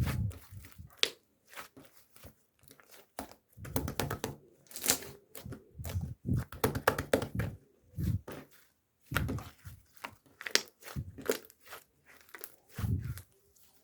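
Irregular rustling and crinkling with scattered clicks and soft low thumps, coming and going in short bursts.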